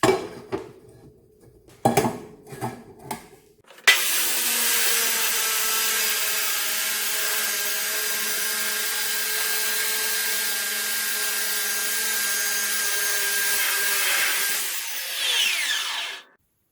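A few knocks and clicks of handling, then about four seconds in a power drill starts. It runs steadily and loudly with a constant whine while working on material, then cuts off suddenly near the end.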